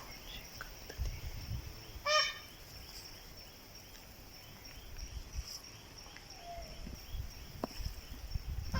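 Indian peafowl (peacock) giving one short, loud call about two seconds in, with a few fainter calls later. It is an unusual call, unlike their rain-time calling, which the owner guesses may be an alarm at a snake.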